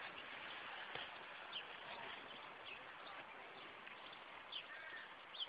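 Faint outdoor background noise with a few short bird chirps scattered through it, each a quick up-and-down whistle.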